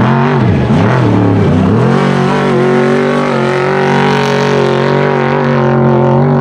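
Desert trophy truck engine at high revs: its pitch drops sharply and climbs back about three times in the first two seconds as the throttle lifts and reopens, then it holds a steady high note at full throttle.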